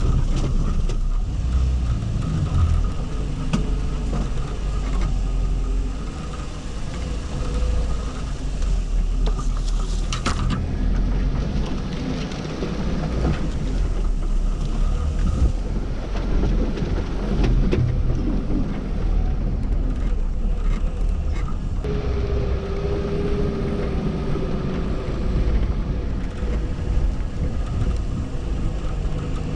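Car driving along: steady engine and road rumble, its character changing abruptly a few times.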